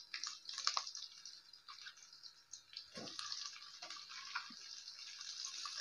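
Hot oil in a metal kadai sizzling and crackling faintly as onions, green chillies and curry leaves fry, with a couple of soft knocks around the middle.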